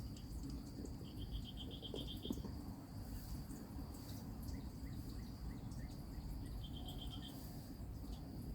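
Insects, crickets by their sound, keeping up a steady high-pitched drone. Two short, rapid pulsed trills come through, one about a second in and one near the end, with a few faint short chirps between them.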